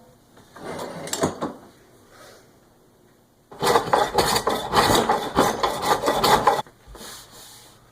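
Wood being scraped or rubbed by hand: a few light scuffs, then a loud, dense run of quick scraping strokes lasting about three seconds, stopping abruptly before softer rubbing near the end.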